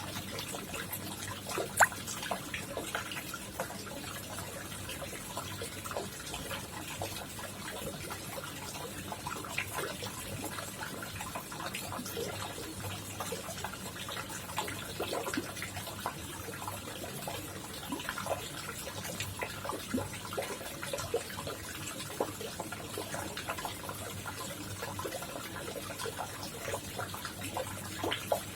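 Koi pond water trickling and splashing steadily, with many small plops and drips and one louder sharp plop about two seconds in. A faint steady low hum runs underneath.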